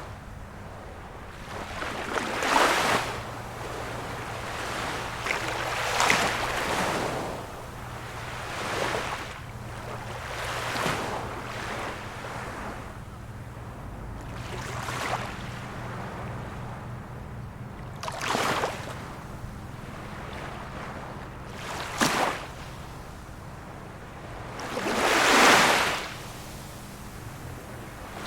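Rushing noise that swells and fades every few seconds, over a steady low hum.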